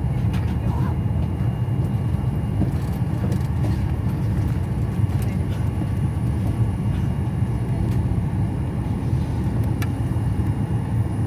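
Airliner cabin noise before takeoff: a steady low rumble from the engines and cabin air system, unchanging in level.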